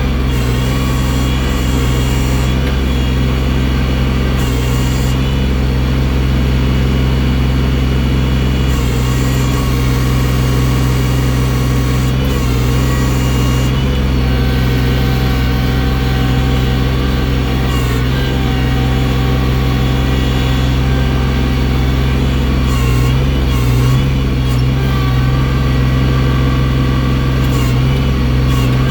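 Tractor engine running steadily under work as its loader bucket moves heavy snow. The engine's pitch holds nearly constant, with small wavers in speed a little past the middle.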